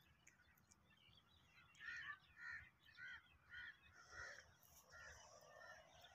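A bird calling: a run of about six repeated notes, roughly two a second, starting about two seconds in.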